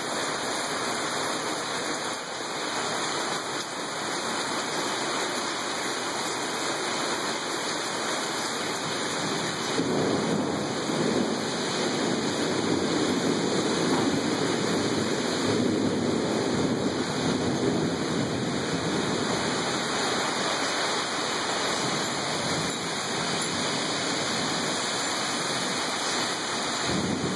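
Steady heavy rain during a thunderstorm, with a long rolling rumble of thunder that swells about ten seconds in and eases off again after several seconds.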